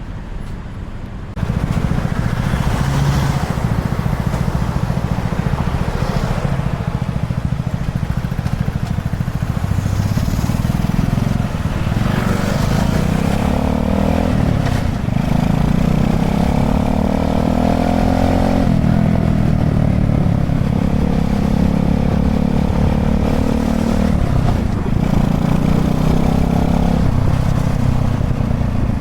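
Honda Chaly minibike's small engine running under way. Its pitch climbs as it accelerates and drops back, several times over, as it shifts gear or eases off.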